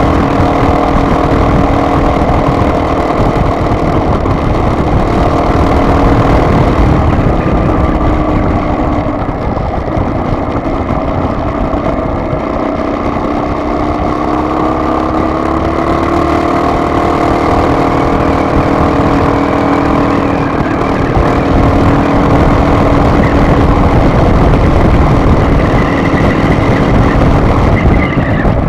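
Car driving along a road: steady engine drone whose pitch drifts slowly up and down with speed, over continuous tyre and road rumble.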